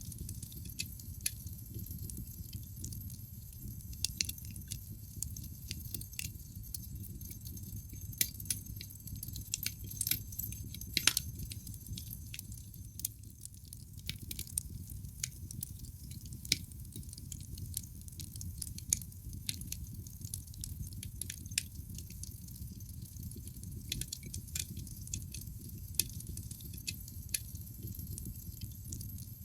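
Wood fire burning in a fireplace: irregular sharp crackles and pops from the logs over a low, steady rumble of the flames, with a brief flurry of louder pops partway through.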